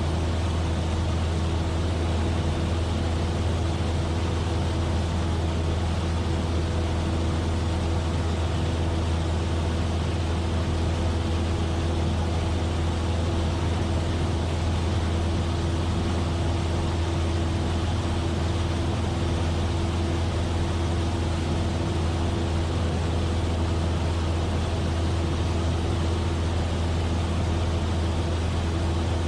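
Cessna 172F's six-cylinder Continental O-300 engine and propeller droning steadily in flight, a deep constant hum with a steady higher tone over a wash of airflow noise.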